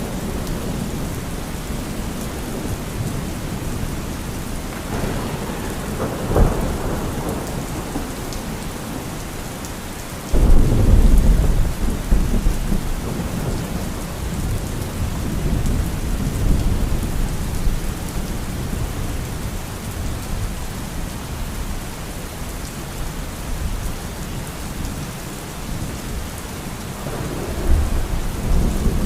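Steady heavy rain with thunder: a rumble about five seconds in that ends in a sharp crack, a sudden loud clap about ten seconds in that rolls on for several seconds, and another rumble building near the end.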